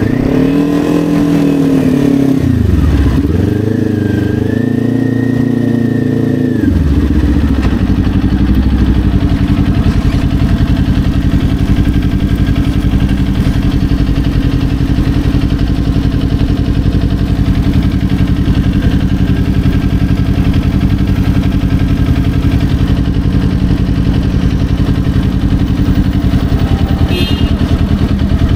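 Kawasaki Ninja 400's parallel-twin engine, its revs rising and falling twice, then settling to a steady idle about six seconds in.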